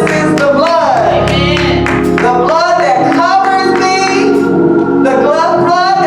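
Gospel singing with instrumental accompaniment: a voice singing gliding, drawn-out lines over held chords.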